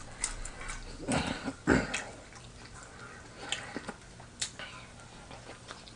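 A man chewing a spicy sandwich close to the microphone: soft wet mouth clicks and smacks, with two louder sounds between one and two seconds in.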